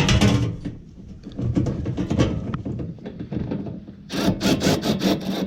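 Hand work on generator parts: rubbing, scraping and light knocks as fasteners and plastic parts are handled, then a fast, even run of sharp clicks about four seconds in.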